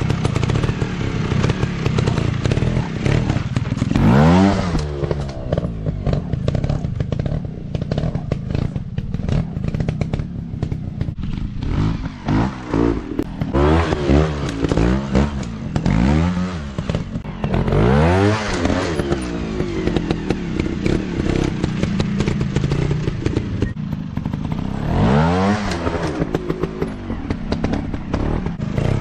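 Dirt bike engine revving up and dropping back again and again as the rider works the throttle, with quick repeated blips in the middle and a sharp rev near the end.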